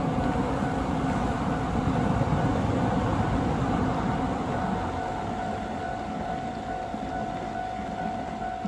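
Limited express electric train passing close on the track and running away, its wheel rumble loudest about two seconds in and then slowly fading, with steady rain underneath.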